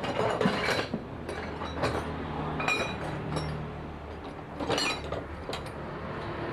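Light metallic clinks and knocks, about seven at irregular intervals, from hard objects being handled, over a low steady hum.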